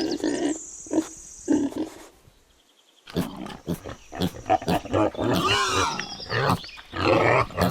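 Pigs grunting and squealing, with short calls at first, a brief pause, then a busy run of calls that bend in pitch.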